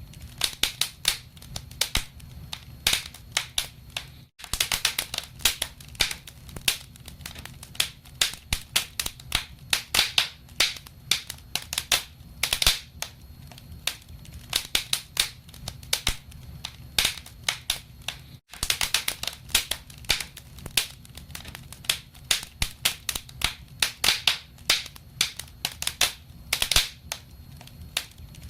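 Wood fire in a fireplace crackling, with many irregular sharp pops over a low steady rumble of the flames. The sound cuts out for an instant twice, about four seconds in and again past eighteen seconds.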